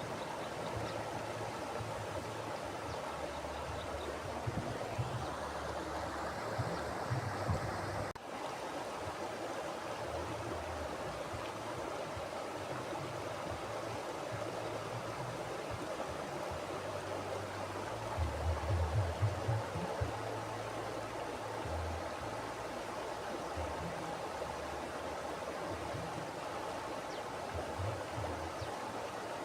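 Mountain river flowing: a steady rushing of water, with irregular low rumbles that come and go, strongest about two-thirds of the way in. The sound drops out for an instant about eight seconds in.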